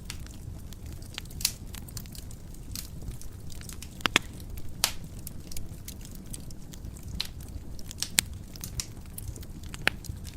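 Wood fire burning in a fireplace, crackling with irregular sharp pops over a low steady rumble of the flames; a cluster of louder pops about four seconds in and single louder pops near the end.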